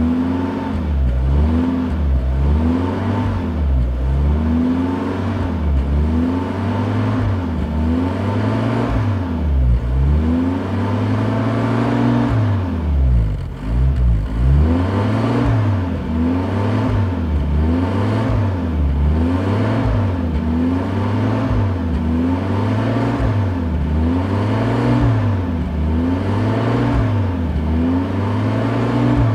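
A 1967 Wolseley Sixteen-Sixty's four-cylinder BMC B-series engine, heard from inside the car, revved up and down again and again in quick blips. About halfway through it drops away briefly, then revs higher.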